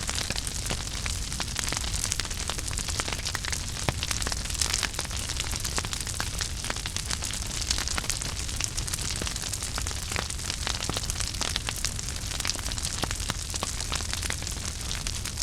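Wood fire burning in a fireplace, crackling continuously with many small sharp pops over a steady low rumble and hiss.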